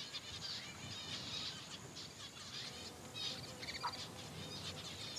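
Birds chirping in quick runs of short, high notes.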